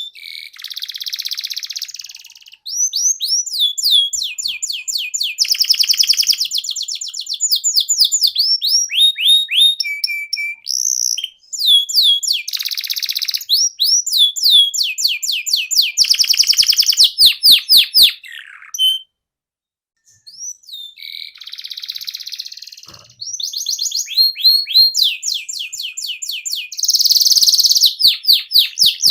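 Domestic canary singing: long runs of rapid, repeated high chirps and rolling trills, breaking off briefly about two-thirds of the way through before starting again.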